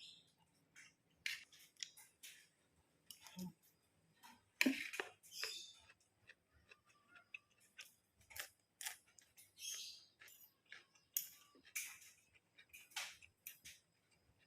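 Eating sounds of a person chewing fried rice with stink beans: irregular short wet smacks and clicks of mouth and lips, a dozen or more spread unevenly.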